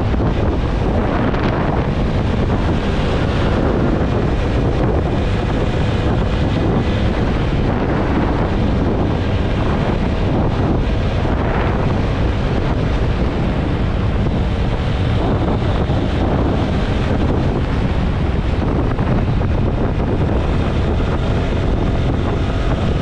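Steady wind rush buffeting the microphone of a TVS Apache RTR 160 4V motorcycle riding at highway speed, with the engine and road noise running underneath.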